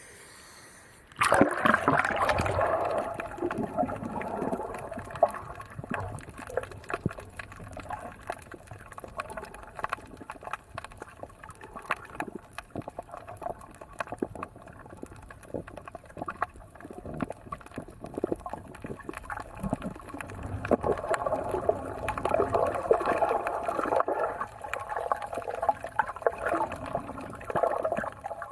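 Water sloshing and bubbling, heard muffled through an action camera's waterproof dive case in the sea. It starts abruptly about a second in and goes on unevenly, with many small clicks and gurgles.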